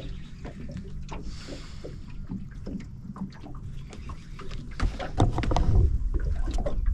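Small boat on the water: scattered knocks and clicks against the hull with water slapping, over a low rumble that grows louder about five seconds in.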